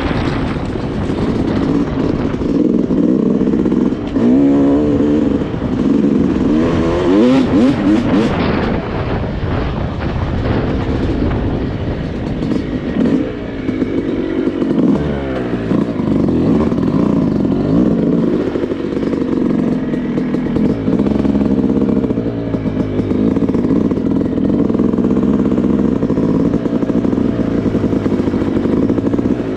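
Yamaha YZ250 two-stroke single-cylinder dirt bike engine running under riding load, revving up and down several times as the throttle opens and closes.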